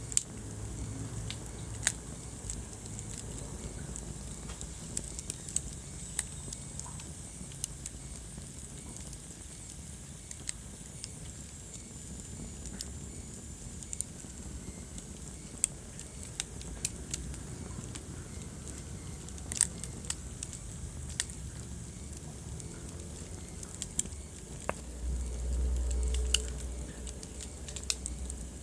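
Wood fire burning in a fireplace, crackling with irregular sharp pops over a steady low rumble. A louder low rumble swells briefly near the end.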